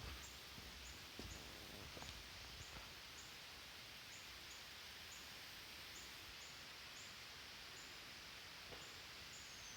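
Faint mountain forest ambience: a steady high hiss with a soft, high chirp repeating about every 0.7 seconds and a few faint ticks. Near the end a long, thin whistle starts and falls slowly in pitch.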